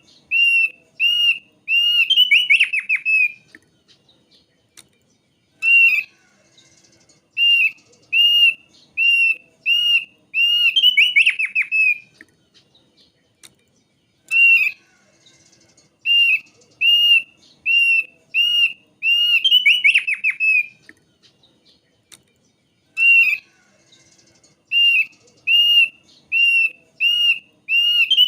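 Thick-billed white-eye (opior paruh tebal) singing: a run of clear, whistled, arched notes, about two a second, that ends in a quick cascading trill. The phrase repeats about every eight or nine seconds, three times in a row, like a looped lure recording.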